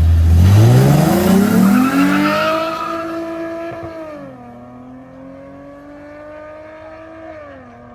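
Drag-race car launching hard off the line, its engine pitch climbing fast as it accelerates away. It shifts up twice, the pitch dropping at each change, and fades as it pulls into the distance.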